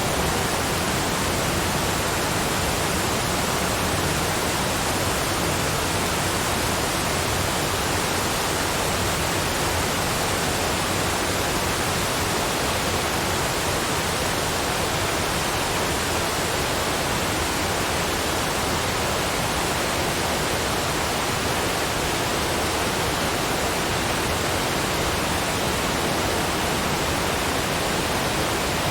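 Waterfall: water rushing down in a steady, unbroken hiss that does not change.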